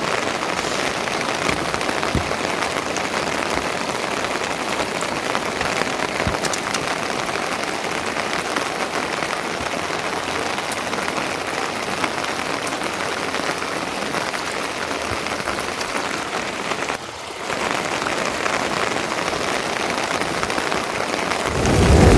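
Steady rain falling, with a few faint separate drop ticks; it dips briefly about seventeen seconds in.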